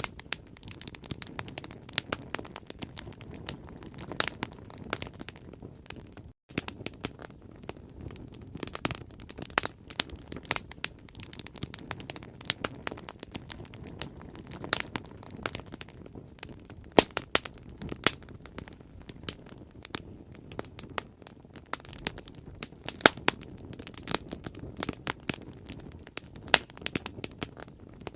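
Wood bonfire crackling, with irregular sharp pops and snaps over a steady low rumble. The sound drops out for an instant about six seconds in.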